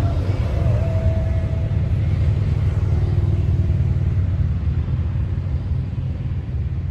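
Vehicle driving along a road: a steady low rumble of engine, road and wind noise.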